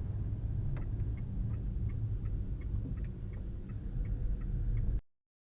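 Car turn signal clicking about three times a second over a steady low engine and road rumble inside the cabin; the sound cuts off abruptly near the end.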